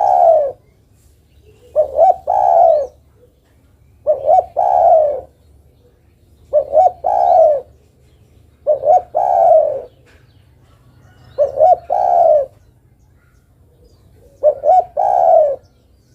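Spotted dove (derkuku) cooing, given as a female calling to a male. It repeats a phrase of two short notes followed by a longer, falling note about every two to three seconds, seven times.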